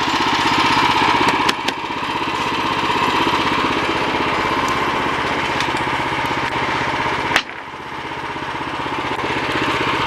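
Portable bandsaw sawmill's gasoline engine running steadily. About seven seconds in there is a sharp click, and the sound drops for a moment before building back up.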